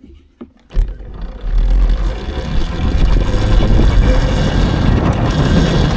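Loud rumbling vehicle and wind noise from riding off, starting suddenly about a second in after a few clicks, then running steadily.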